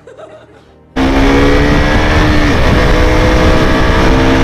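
KTM RC200's single-cylinder engine running at a steady cruise under a heavy rush of riding wind. It starts abruptly about a second in. Its steady note fades for a moment past the middle and then returns.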